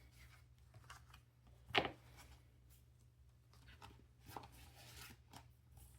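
Faint rustling and light tapping of paper cash and a budget binder being handled, with one sharper tap about two seconds in.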